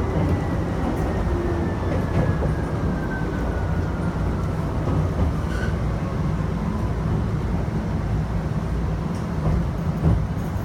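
Chichibu Railway electric train running, heard from inside the front of the car: a steady low rumble, with a faint thin whine that falls slowly in pitch over the first seven seconds.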